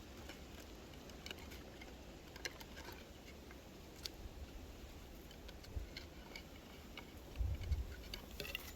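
Faint, scattered light clicks and taps from handling sticks and trap gear at a beaver set, with a low rumble of handling or wind near the end.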